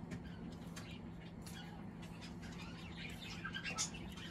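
Faint, scattered bird chirps over a low steady hum.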